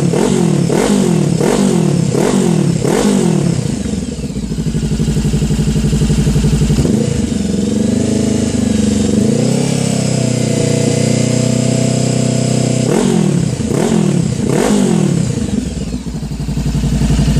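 Honda CB500F parallel-twin engine being revved: a run of quick throttle blips about two a second, then revs held up and swinging slowly up and down, then a few more sharp blips before it drops back to a steady idle near the end.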